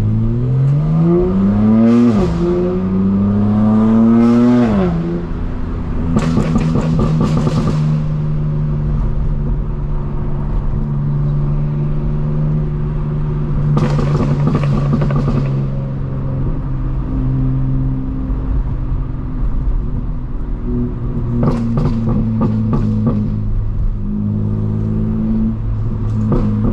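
Straight-piped BMW M4 Competition's twin-turbo inline-six accelerating hard, its pitch climbing, dropping at a shift about two seconds in, climbing again and falling as the throttle lifts around five seconds. The exhaust then crackles and pops, and the engine settles into a steady low drone with further bursts of crackles about halfway and near the end, before revving up again at the close.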